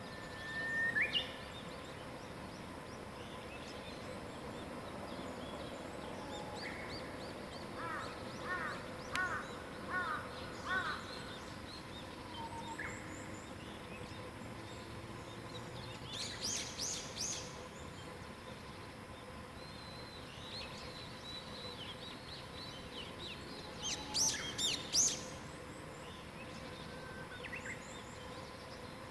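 Several wild birds singing and calling over a quiet mountain morning, with scattered whistles and short phrases and a run of repeated notes about ten seconds in. Louder bursts of chirps come just past halfway and again near the end. A faint steady hum sits underneath.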